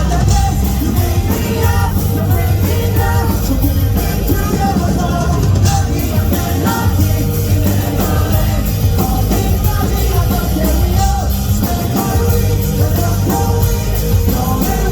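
A live rock band performing, with a singer's voice over loud, steady band music.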